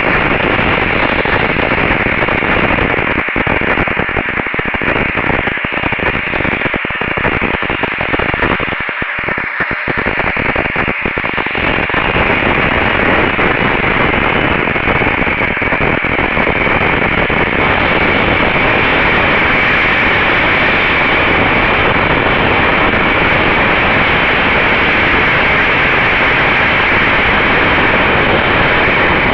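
Loud, steady hiss and static-like noise picked up by a RunCam 2 action camera's own audio, with a faint steady tone underneath. It breaks up briefly several times in the first ten seconds or so.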